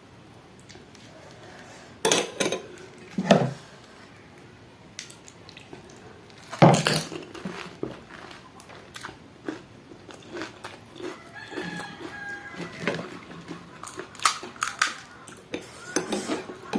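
Crisp pani puri shells crunching between the teeth, then chewing with wet mouth noises. There are a few loud crunches in the first seven seconds, followed by lighter crackling as the mouthful is chewed.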